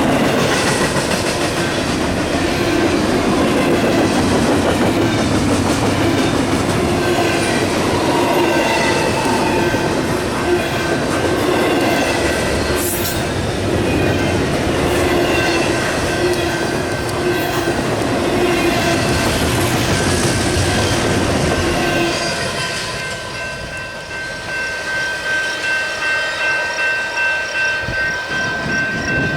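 Union Pacific double-stack container train rolling past at speed, its steel wheels running loud and steady on the rails. About three-quarters of the way through, the train noise drops away, leaving an evenly repeating ringing of about two strokes a second, typical of a grade-crossing bell.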